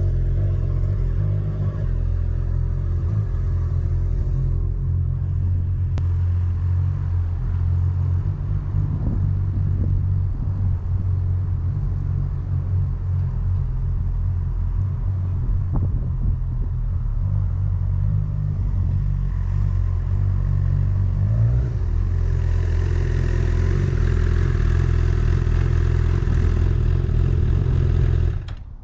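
Motorcycle engine running steadily, its note shifting about three-quarters of the way through, then cutting off abruptly at the very end.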